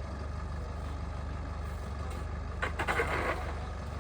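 A steady low motor hum, with a brief burst of noise about three seconds in.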